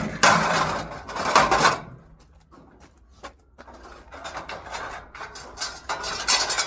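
Scrap items being handled, with irregular bursts of rustling and scraping and a few light knocks. The loudest bursts come in the first two seconds and again near the end.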